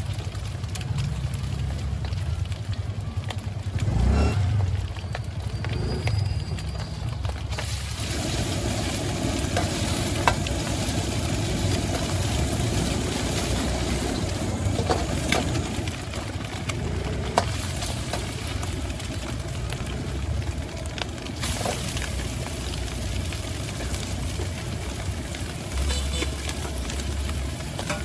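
Stir-fry sizzling in a street vendor's wok, with a metal spatula now and then clinking against the wok. The sizzle grows louder about a quarter of the way in, over a low steady rumble.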